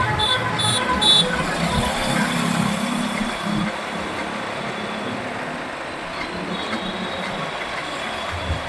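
Motorcycle riding in city traffic, with steady engine and road noise. A vehicle horn beeps three or four times in quick succession at the start.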